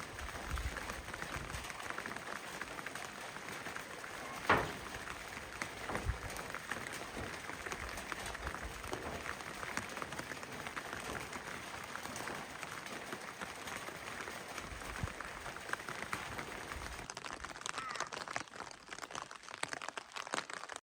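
Steady rain pattering, a dense even hiss of fine drops, with a sharp knock about four and a half seconds in and a smaller one soon after.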